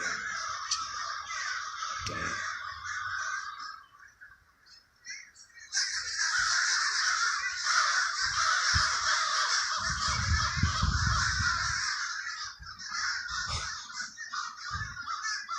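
A flock of crows cawing, many birds calling over one another in a continuous din. It thins out briefly about four seconds in, then swells back louder about a second and a half later.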